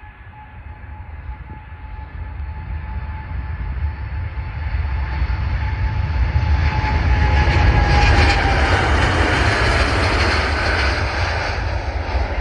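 Boeing 787 jet engines at take-off power, the roar growing steadily louder as the airliner comes closer and then easing a little. A thin engine whine drops in pitch about eight seconds in as the aircraft passes.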